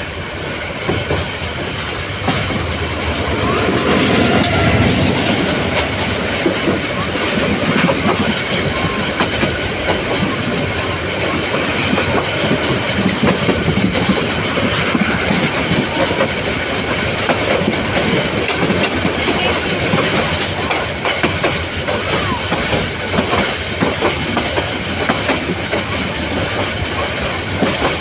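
Passenger train running along the track: a steady rumble with the clickety-clack and knocking of wheels over rail joints, and some faint wheel squeal.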